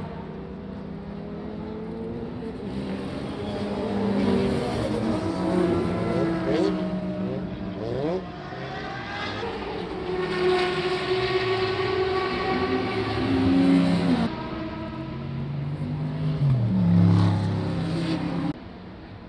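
Historic racing car engines at full throttle, their pitch climbing and dropping at each gear change. The sound switches abruptly from one car to another a few times.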